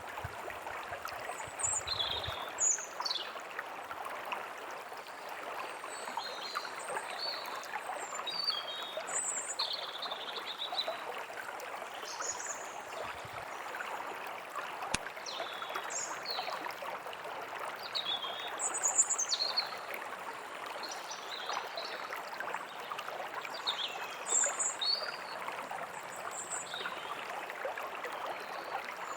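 Forest ambience: a stream running steadily, with many short, high bird chirps and calls scattered over it.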